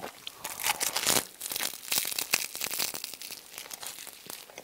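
Eating sounds picked up by a clip-on microphone: chewing food, with a rapid run of crackles that is busiest in the first three seconds and thins out toward the end.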